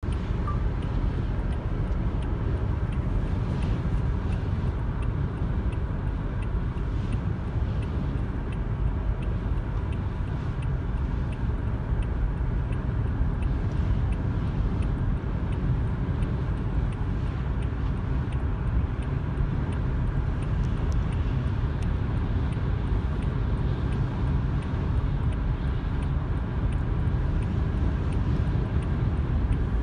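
Car driving at highway speed in heavy rain: a steady low rumble of tyres and engine under the hiss of rain and road spray, with a faint regular ticking.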